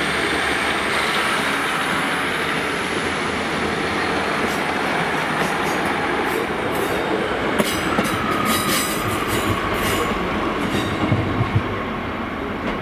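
Class 150 two-car diesel multiple unit moving past the platform, a steady rumble of engine and wheels. In the second half a run of sharp clicks and a faint wheel squeal come from the wheels on the rails.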